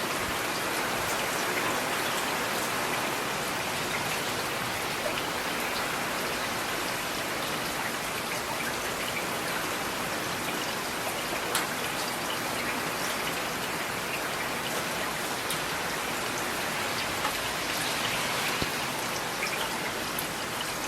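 Steady rain falling, with a scattering of sharper drop ticks over the even hiss.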